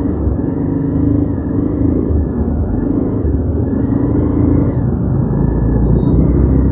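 Motorcycle engine running under way, its note wavering slightly up and down, over a steady low rumble.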